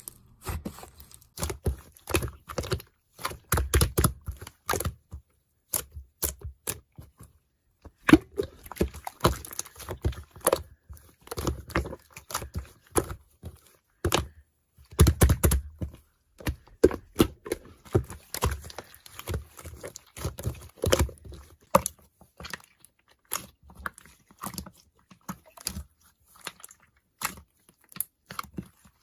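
Dense, irregular clicks and crackles in clusters, with brief pauses.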